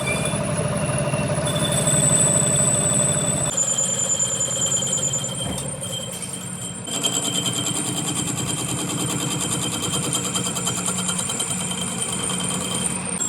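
Machinery running with a fast, even pulsing and a steady high whine; the sound changes abruptly about three and a half seconds in and again about seven seconds in.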